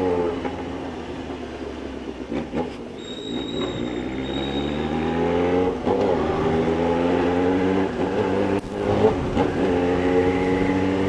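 Yamaha XJ6's 600 cc inline-four engine under way, with the revs easing off and then climbing as the bike speeds up through the gears. The pitch drops back at upshifts about six and nine seconds in, then rises again each time.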